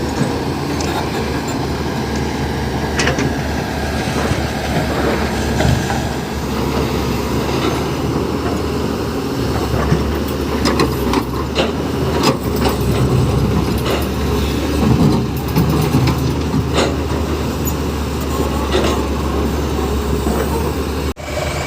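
Tata Hitachi excavator working at sand loading into a tipper truck: a steady, loud engine rumble, with a run of clanks and knocks through the middle.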